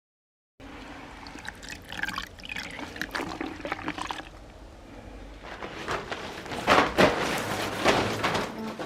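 Water pouring and splashing irregularly, louder from about six seconds in.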